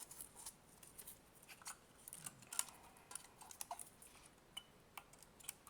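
Faint scattered clicks and small snaps of hands fitting a rubber band around the cut plastic shell of a Nintendo Switch AC adapter.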